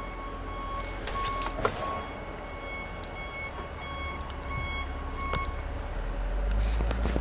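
Backup alarm of a snow-plowing machine beeping steadily, about once a second, over its engine rumble. The engine grows louder near the end as the machine comes closer.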